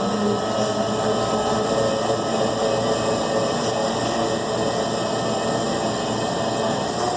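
Steady mechanical hum of a small running motor, even throughout with no strokes or rhythm.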